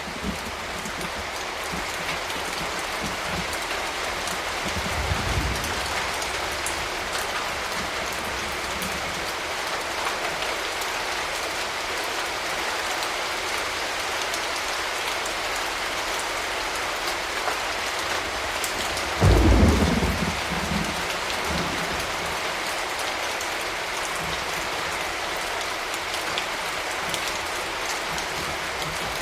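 Steady rain falling, with a low rumble of thunder about five seconds in and a louder rumble of thunder at about nineteen seconds.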